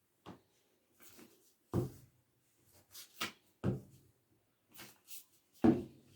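Paper craft pieces being handled and pressed onto a tabletop: a series of short knocks and taps, the three loudest spaced about two seconds apart.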